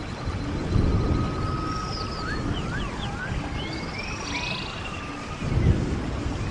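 Stream water running and gurgling steadily, with a songbird whistling a string of short notes that slide up and down through the middle.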